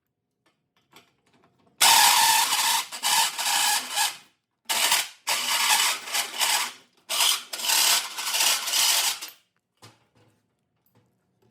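A tool rasping against metal in about eight separate strokes, each under a second, with short gaps between them.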